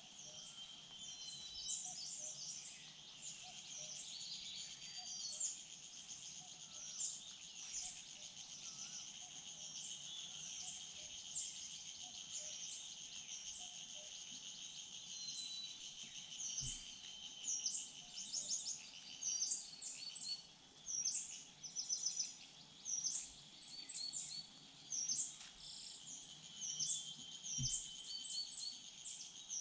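Woodland chorus of small songbirds giving many short, high chirps and whistles, more frequent and louder in the second half, over a steady high-pitched insect buzz.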